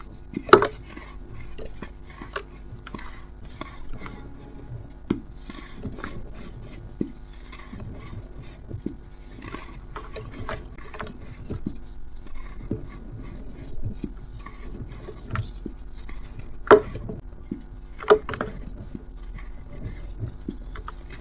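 Something dry and brittle being crumbled: a steady run of small crisp clicks and crunches, with a few sharper, louder snaps about half a second in and twice near the end.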